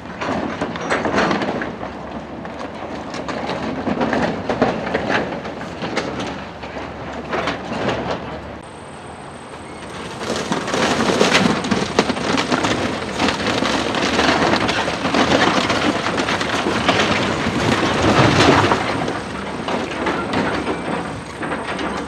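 Heavy equipment demolishing a building: continuous crunching, cracking and clattering of breaking walls and falling debris, heavier and louder through the second half.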